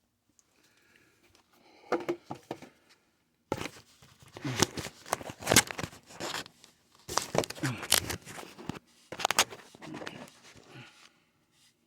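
Handling noise from plumbing work on a water line: irregular runs of scraping, crinkling and tearing sounds with sharp clicks, starting briefly about two seconds in and going on in bursts for most of the rest.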